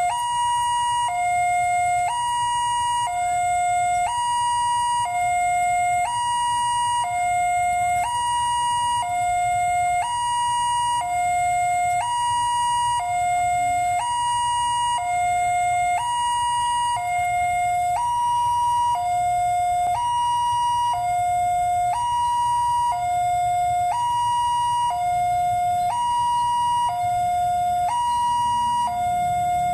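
Railway level-crossing warning siren alternating steadily between two tones, high then low, each held about a second, warning that a train is approaching. A low rumble runs underneath.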